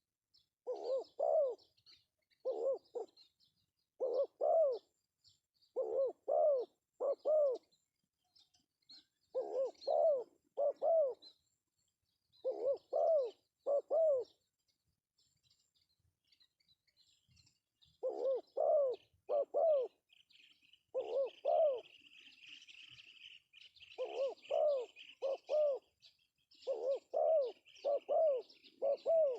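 Male spotted dove cooing: about ten phrases of two or three short rising-and-falling coos each, with a pause of a few seconds in the middle. Faint high chirps of small birds, and from about 21 s a soft high hiss, sit behind the coos.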